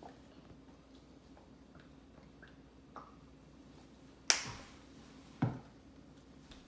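Two sharp knocks about a second apart, the first a bright click with a short ring, the second duller, with a fainter click before them, over a steady low hum.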